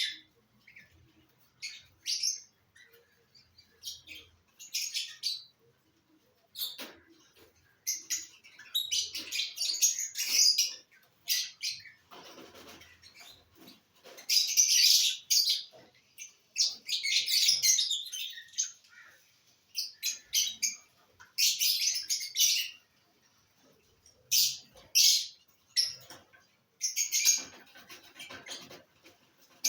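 Lovebirds chirping in short, high bursts of chatter at irregular intervals, some calls brief and others running on for a second or two.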